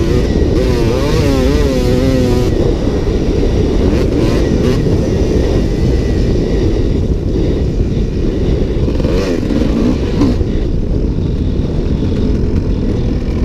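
Dirt bike engine revving up and down as it is ridden around a motocross track, its pitch swinging quickly in the first couple of seconds and again near the middle, over a steady low rumble.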